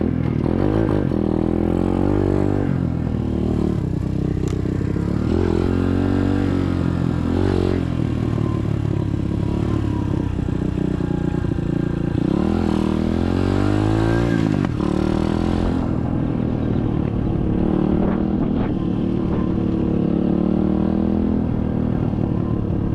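SSR 125cc dirt bike's single-cylinder four-stroke engine running while being ridden, its revs rising and falling again and again with the throttle.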